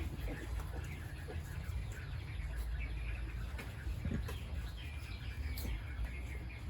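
Scattered short animal calls, faint chirps and clucks, over a steady low rumble.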